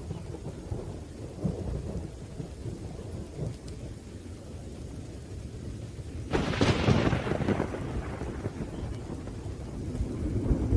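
Thunderstorm with rain: low rolling thunder, and a sharp, loud thunderclap about six seconds in that fades over a second or two, then more rumbling near the end.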